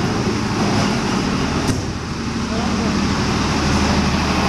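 Pakistan Railways passenger train moving slowly alongside the platform: a steady low rumble and hum from the coaches and locomotive, with one sharp click about a second and a half in. Voices murmur under it.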